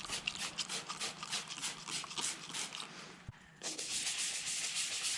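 Toothbrush scrubbing toothpaste over a plastic taillight lens, at first in quick repeated strokes. After a short pause with a soft knock about three seconds in, it goes on as steadier scrubbing.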